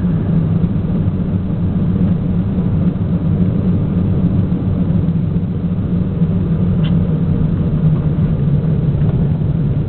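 2000 Ford Mustang GT's 4.6-litre V8 running steadily at low revs as the car rolls slowly, heard from inside the cabin.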